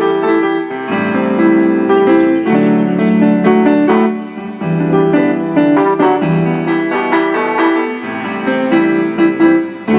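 Keyboard music: chords with a melody on top, the notes changing every half second to a second in a steady flow.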